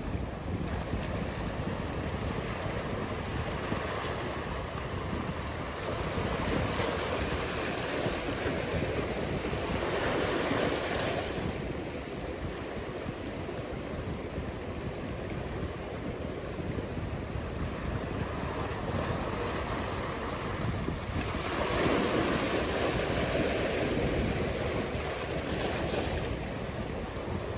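Ocean surf: a steady wash of breaking waves that swells louder about ten seconds in and again a little past twenty seconds.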